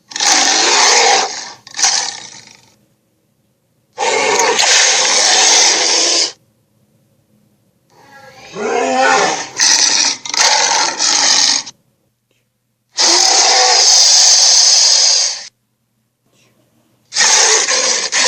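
Fantasy-creature roar sound effects: five separate rough roars of two to three seconds each, with silent gaps between, the last still going at the end.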